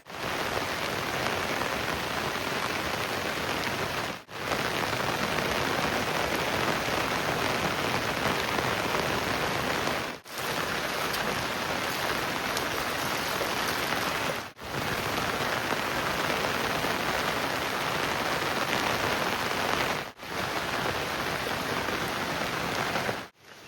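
Heavy rain pouring steadily in a dense hiss, cutting out briefly four times.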